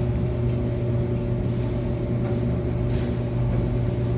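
Samsung clothes dryer running with a steady hum and no knocking or scraping, on its test run after the cracked drum part was replaced.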